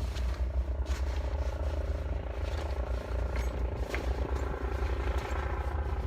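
Steady engine drone holding an even pitch, under a flickering low rumble of wind on the microphone.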